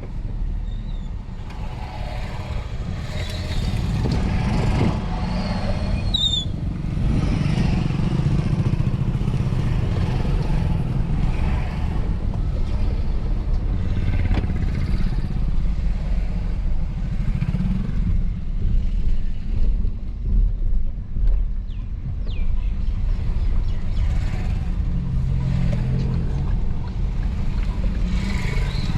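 Busy traffic at a railway level crossing: many vehicle engines running together, motorcycles among them, in a steady loud rumble with irregular clatter.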